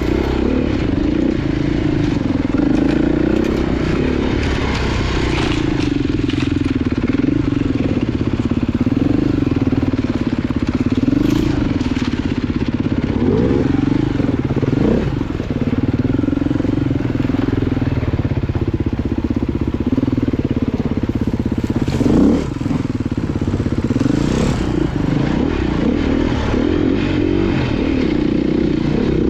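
Off-road motorcycle engine running under way, its revs rising and falling over and over with the throttle, with a few knocks from the bike over rough trail.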